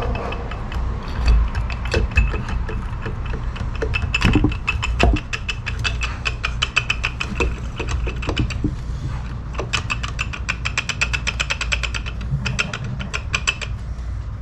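Hand work on transmission parts: scattered clicks and light knocks, with long runs of rapid clicking in the second half.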